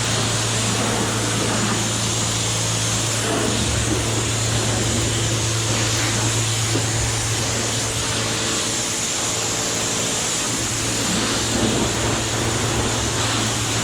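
Steady road and wind noise inside a car cruising at about 60 mph, with a constant low engine drone.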